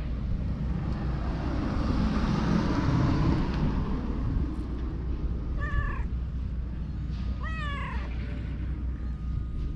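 A cat meowing twice, two short calls about a second and a half apart in the second half. Before them a broad rush of noise swells up and fades, over a steady low hum.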